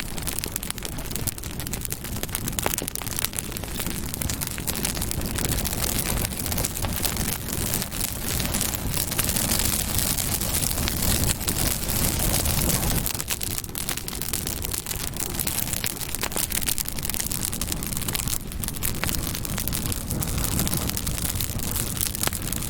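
Campfire burning: wood crackling and snapping in many sharp little pops over a steady low rush of flames.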